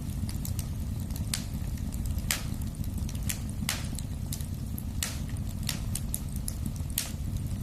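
Wood fire burning in a fireplace: irregular sharp crackles and pops, a couple a second, over a steady low rumble of the flames.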